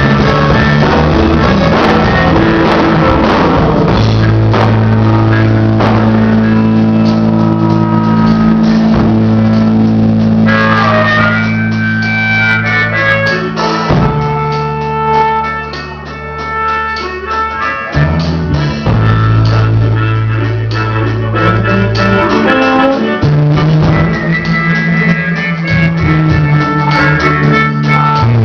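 Rock band playing: electric guitar, bass and drum kit, with a harmonica.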